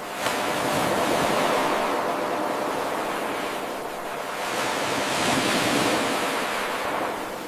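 Ocean surf washing in and out in slow swells: a wave surges in abruptly about a quarter second in, eases off around the middle, swells again and falls away near the end. It is an eight-second wave recording looped without a break.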